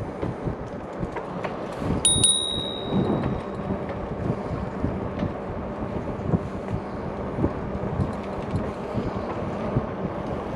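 A bicycle bell rings once about two seconds in, a clear high ding that fades over about a second. Under it is the steady rumble and wind-on-microphone noise of e-bikes riding along a trail.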